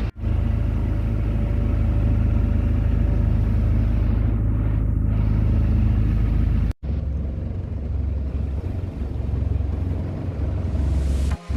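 Steady low engine rumble that breaks off abruptly twice, just after the start and about two-thirds of the way through, and picks straight up again each time.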